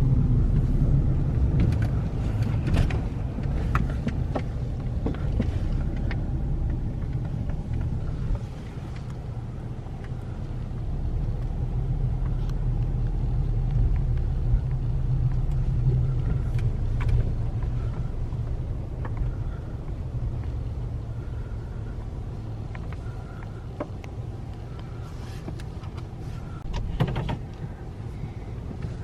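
A car's engine running, a steady low rumble with scattered clicks and knocks.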